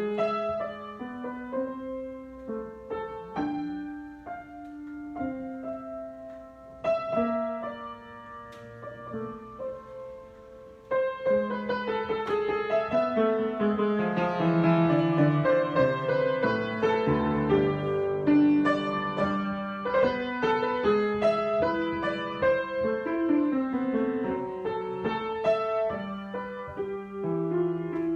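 Solo piano improvisation, sparse and quiet at first, then fuller and louder with many overlapping notes from about eleven seconds in.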